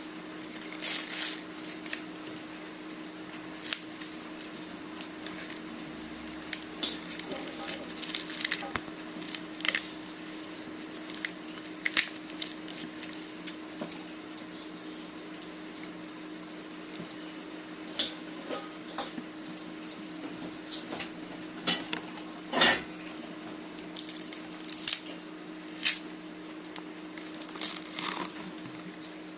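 A bamboo shoot being peeled by hand: irregular snaps, scrapes and tearing of the tough outer sheaths, with one louder crack near the end, over a steady low hum.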